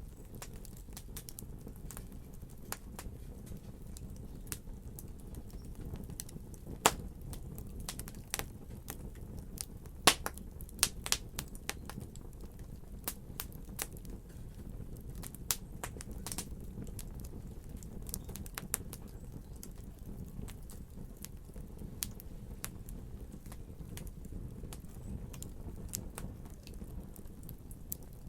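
Wood fire crackling in a fireplace: irregular sharp pops and snaps over a steady low rumble, with a few louder pops a few seconds apart.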